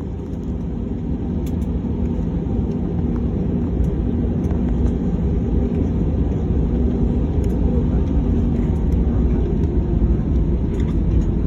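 Airliner's engines and airframe running with a steady deep rumble that slowly grows louder, as on a taxi or takeoff roll.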